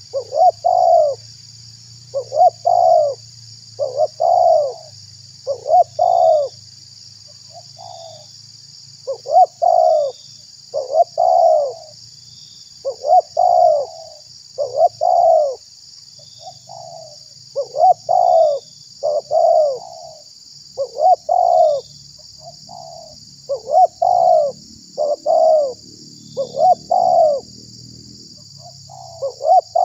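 Spotted dove cooing over and over, in phrases of two or three arched coos with a phrase about every two seconds: a lure call for trapping wild doves and for setting other doves calling. A steady high-pitched hiss runs underneath.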